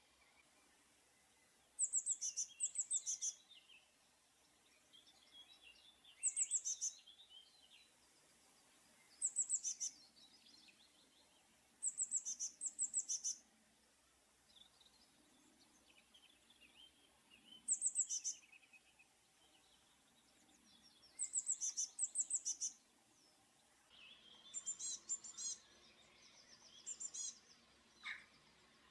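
Blue tit singing: short phrases of thin, high, falling notes, each followed by a lower trill, repeated every few seconds. Near the end comes a busier run of quick short notes.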